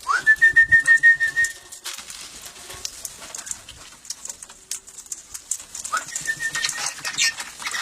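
Parrot calling: a quick rising note that breaks into a fast, loud run of repeated high notes on one pitch, then the same run again, softer, about six seconds in.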